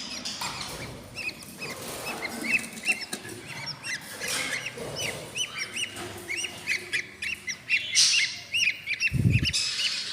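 Baby budgie chicks in a nest box giving rapid, repeated short high cheeps, the begging calls of hungry nestlings. A low thump comes near the end.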